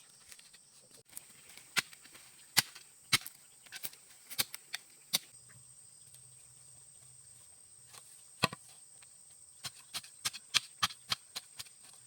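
Sharp, short knocks or chopping strikes in two irregular runs, a few per second, over a faint steady high-pitched hiss.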